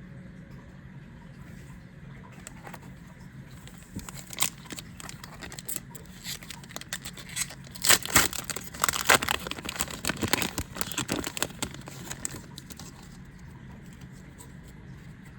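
Foil trading-card booster pack being torn open and crinkled: a run of sharp crackles that starts about four seconds in, is loudest around the middle and stops about three-quarters of the way through, over a steady low hum.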